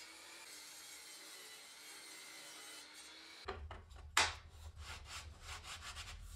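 Steady hiss, then about halfway in a hand tool working wood in quick back-and-forth strokes, about four or five a second, with one much louder stroke early in the run.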